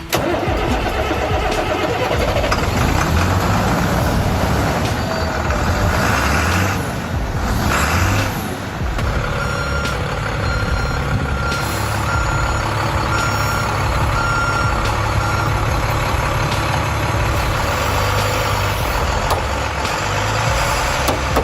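Heavy vehicle's engine running loudly, with a reversing alarm beeping at an even pace for several seconds midway through.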